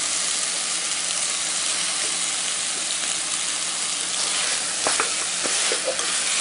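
Mixed vegetables (cauliflower, carrot, peas, potato) sizzling in a hot aluminium pressure cooker pan, a steady frying hiss. A wooden spatula stirring them adds a few scrapes and knocks in the second half.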